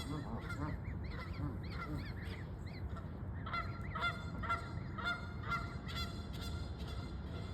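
Geese and their goslings calling: a run of short, high peeps, then louder repeated honking calls, about two a second, from about three and a half seconds in.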